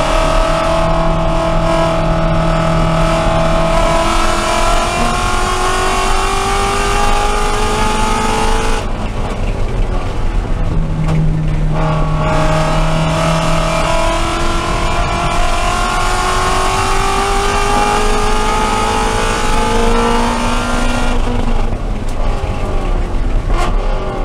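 Ford Mustang Shelby GT350's 5.2-litre flat-plane-crank V8 heard from inside the cabin at full throttle on track. The engine note climbs steadily for about nine seconds, falls away for about three seconds, climbs again, and drops off once more near the end.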